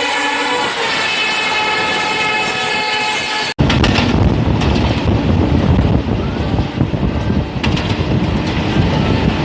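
Train horn sounding one long steady note. It cuts off abruptly after about three and a half seconds and gives way to the loud rumble of a train running on the rails, with scattered clicks.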